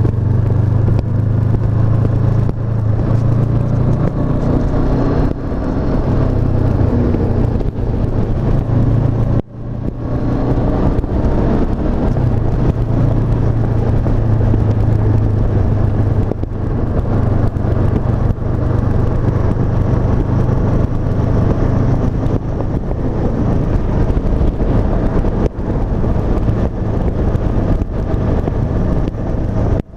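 Honda CB500F's 471 cc parallel-twin engine running steadily while the bike is ridden, with small changes in pitch and a brief drop in sound about nine and a half seconds in.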